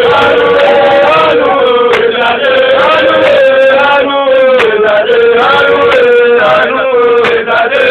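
A man singing a long, drawn-out melodic phrase with held, bending notes over music.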